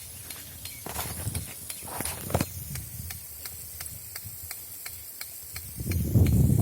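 Rain gun sprinkler running: a hiss of water with a fast, even ticking, about four ticks a second, from its swinging drive arm. Near the end a much louder, low rushing noise comes in.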